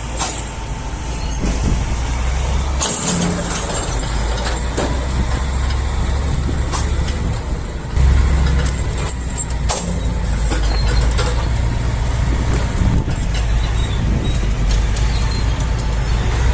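Heavy diesel machinery running with a steady low rumble, with scattered knocks and clanks. The engine sound changes abruptly about three seconds in and again about eight seconds in, where it gets louder.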